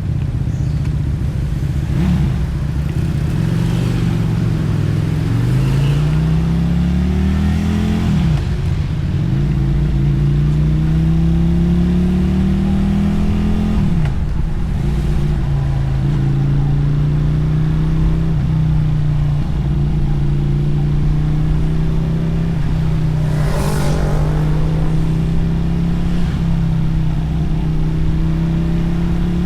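Motorcycle engine and exhaust heard from the rider's seat while pulling away through the gears. The pitch climbs twice and falls sharply at each upshift, then holds steady at cruising speed. A brief rush of noise comes about two-thirds of the way through.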